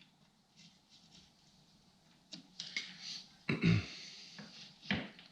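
Hands working a stubborn coolant hose off a snowmobile engine's coolant pump housing: light scraping and clicks, then a dull knock and a second one about a second and a half later.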